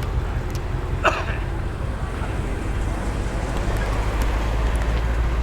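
A car engine runs at low speed, a steady deep rumble that grows a little louder in the second half. About a second in, one short, sharp, high sound cuts across it.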